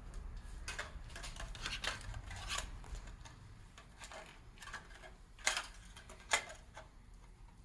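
Scattered light metallic clicks and scrapes of a piston ring compressor being fitted around an oiled piston, with two sharper clicks a little past halfway.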